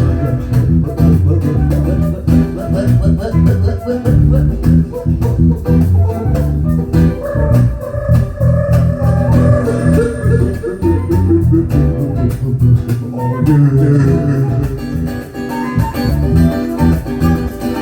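Live funk band playing an instrumental break: electric guitar and bass guitar over a steady drum beat.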